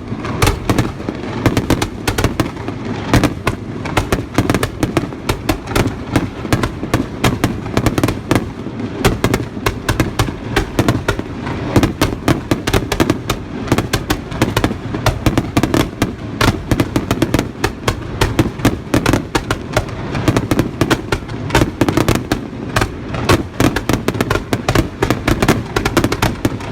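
Fireworks bursting in a continuous rapid barrage: many sharp bangs and crackles a second over a steady low rumble.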